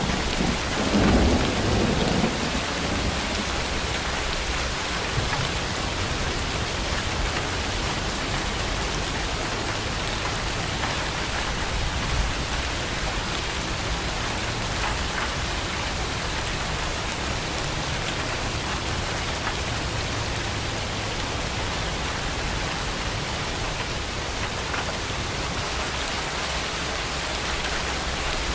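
Heavy rain falling steadily, with a low rumble of thunder in the first two seconds.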